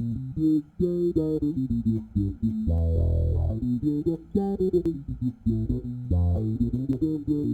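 Electric bass guitar with roundwound strings played through a Qtron/Mutron-style envelope filter pedal, in a busy line of short plucked notes. One note about three seconds in is held longer than the rest.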